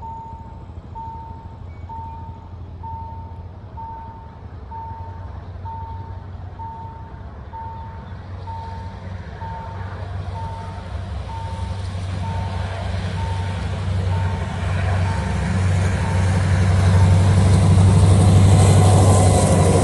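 Level-crossing warning signal beeping about once a second, while the rumble of an approaching diesel locomotive hauling a passenger train grows steadily louder. The train's noise swamps the beeps and is loudest near the end as the locomotive reaches the crossing.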